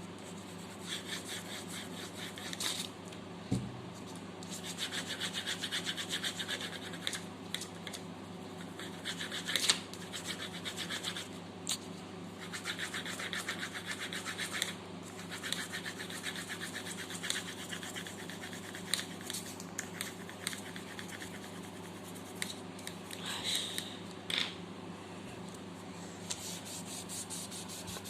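Pencil scratching on paper in rapid back-and-forth shading strokes, coming in bursts of a few seconds, over a steady low hum.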